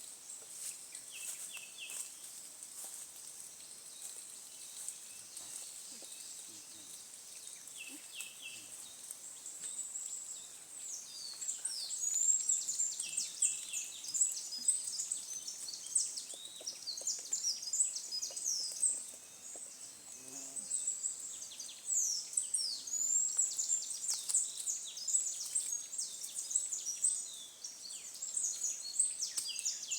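Forest ambience with small birds singing: quick, high chirps and trills that become much busier from about eleven seconds in, over a steady high hum in the first part.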